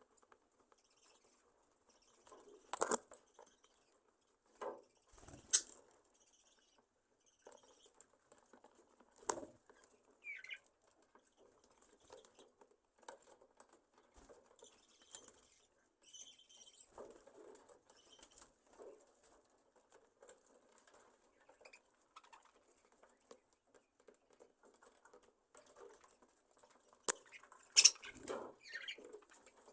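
A colony of budgerigars in an aviary: faint high chirping with scattered taps and clicks and brief wing rustles, busiest near the end.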